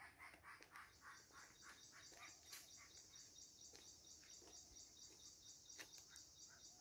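Faint birdsong in a date palm grove: a quick run of chirps at first, then a steady high-pitched trill.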